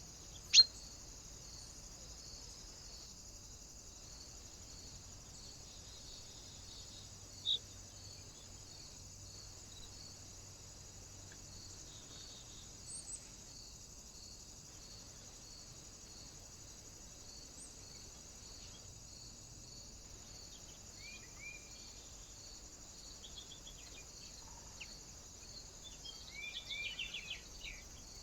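Birds calling at a feeder: a sharp high call about half a second in, another about a third of the way through, a few short chirps later, and a flurry of chirps near the end, over a steady high-pitched pulsing hiss.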